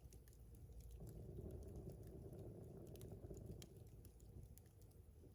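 Wood campfire crackling faintly, with scattered sharp pops and ticks over a low rumble.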